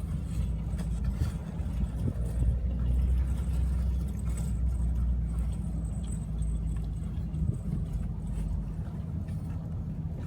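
Car engine idling with a steady low hum, a little louder in the middle and easing slightly near the end.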